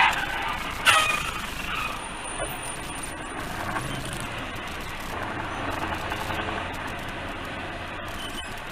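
Road traffic noise from vehicles, with one sudden loud bang about a second in, followed by steady road noise.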